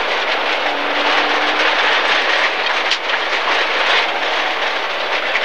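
Inside the cabin of a 1.4-litre MG ZR rally car driven hard on a gravel stage: a steady loud rush of tyre and gravel noise, stones rattling against the underbody, over the engine, with one sharp knock about three seconds in.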